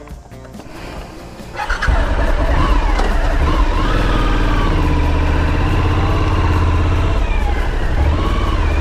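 Motorcycle engine starting about two seconds in and then running, its pitch rising and falling with the revs.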